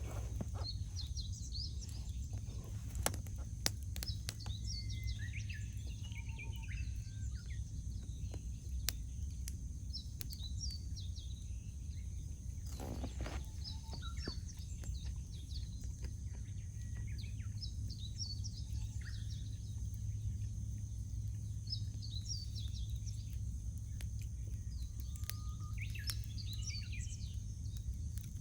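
Small birds chirping and singing in short, high, repeated phrases, with scattered sharp crackles and pops from a wood campfire, over a steady low rumble.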